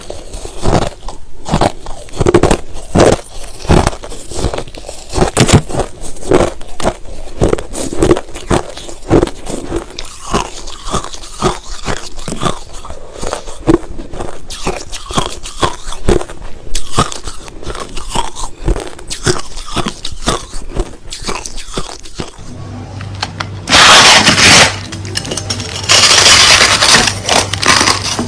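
Crushed ice being bitten and chewed close to the microphone: a continuous run of sharp, irregular crunches, a few a second. Near the end the crunching turns much louder and harsher for a couple of seconds at a time, over a low hum.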